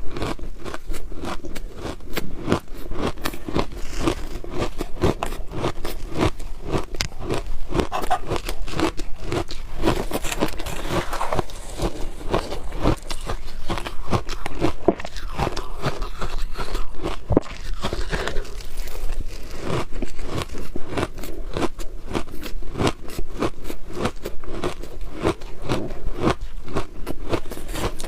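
Close-miked biting and chewing of frozen shaved ice: a continuous run of crisp crunches and crackles.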